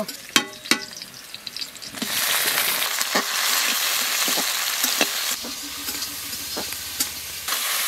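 Tomatoes and onions frying in hot oil in a steel karahi, sizzling with an even hiss that swells about two seconds in, while a metal spatula clicks and scrapes against the pan as they are stirred.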